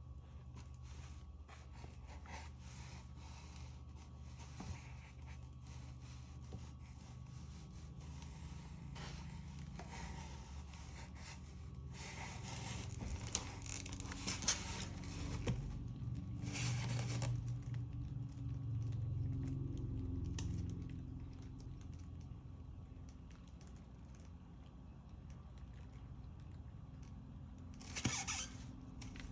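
Small handling sounds of painting work: scattered clicks and scrapes, with brief rustling noises around the middle and near the end, over a low steady hum.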